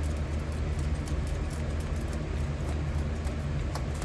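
Metal-melting furnace running with a steady low rumble, with faint scattered clicks over it.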